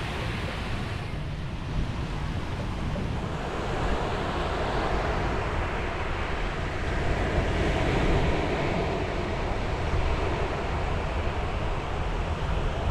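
Sea waves breaking and washing on the shore, a continuous surf noise that swells and eases, with wind rumbling on the microphone.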